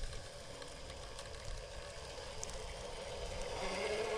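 Electric motor and gears of an RC rock crawler whining steadily as it creeps over rock, with a few faint clicks. About three and a half seconds in, the whine gets louder and a lower tone joins it as the motor takes more load.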